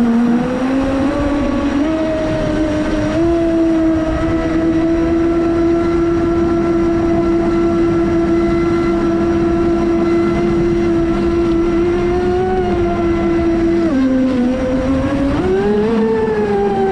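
Traxxas Spartan RC racing boat's brushless electric motor whining at a steady high pitch over a constant hiss. The pitch steps up about three seconds in, drops about fourteen seconds in, then climbs again near the end as the throttle changes.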